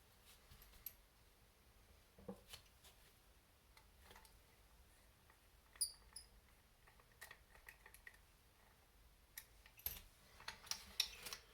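Faint clicks and taps of small kit parts and tools being handled during model assembly, with a short metallic ping about six seconds in and quicker clicking near the end, over near silence.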